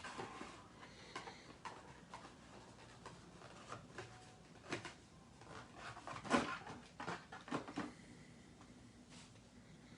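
Faint, irregular clicks and light knocks, the loudest a little past the middle, with a few more close together just after.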